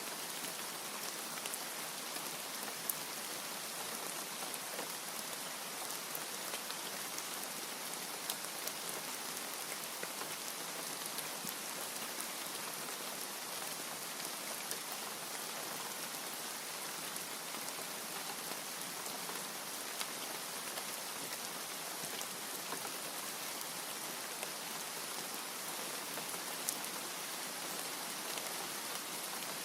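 Steady rain falling, an even hiss with a few sharper drip clicks now and then.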